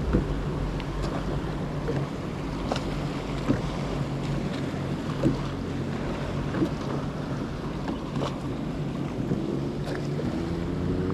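Jet ski engine running at speed over open water, with wind on the microphone and irregular sharp knocks of the hull on the water every second or two.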